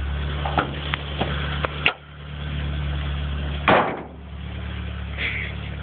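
1986 Nissan Cherry 1.3's four-cylinder engine idling steadily after a cold start, with a few light clicks. Its note dips briefly about two seconds in, and a loud thump comes just before four seconds in.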